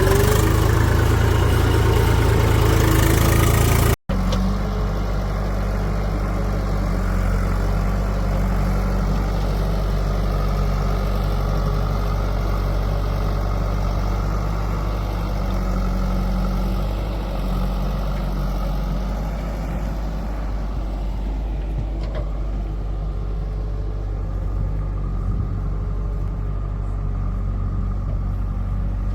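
Diesel engine of a working backhoe loader or tractor running loudly. About four seconds in, an abrupt cut gives way to a steady, lower engine hum.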